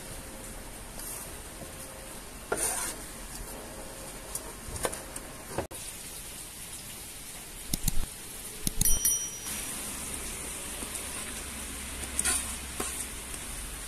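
Hot oil sizzling in a nonstick frying pan as sliced onions are pushed in from a metal tray. There are several sharp metal clinks from the tray against the pan about eight to nine seconds in, and after them the sizzle grows louder.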